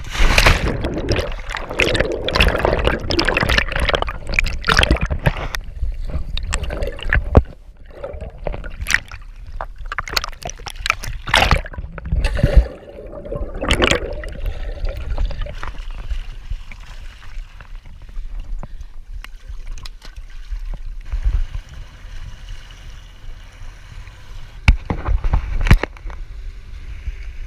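Lake water sloshing and gurgling against the hull of a stalled, drifting jet ski, with irregular knocks and low rumble. It is loudest over the first several seconds and settles to quieter lapping after that.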